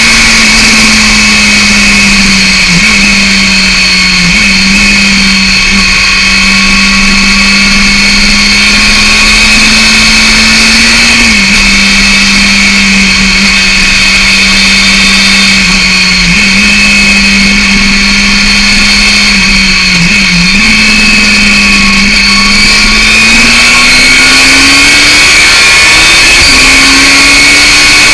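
Yamaha FZR 600 inline-four with a BOS aftermarket exhaust, running loud at steady revs under way with a few brief dips. Near the end it revs up, the pitch rising.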